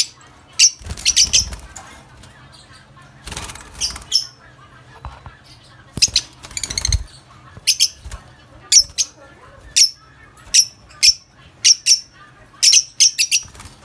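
Lovebirds giving many short, shrill chirps in quick succession, with a few longer noisy bursts about a second, three and a half seconds and six seconds in.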